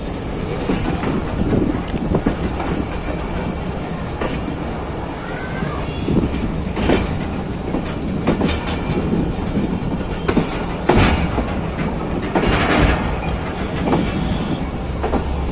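Passenger train rolling along the track, just moving again after a stop, with a steady running noise and the wheels clicking over rail joints at uneven intervals.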